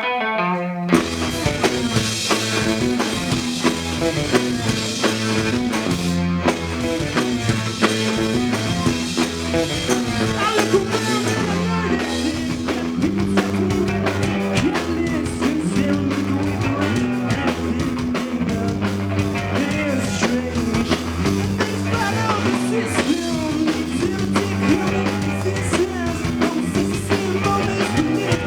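Live rock band playing a song with drum kit, electric guitar and singing; the full band comes in about a second in after a solo guitar intro.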